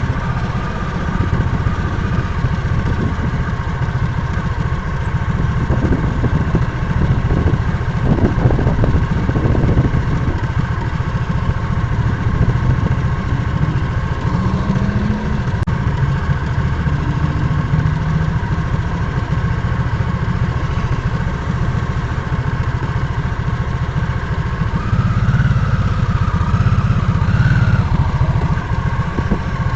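Harley-Davidson motorcycle engine running with a steady low rumble, a little louder near the end.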